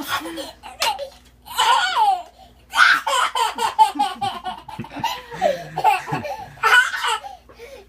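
A one-year-old child laughing in repeated bursts.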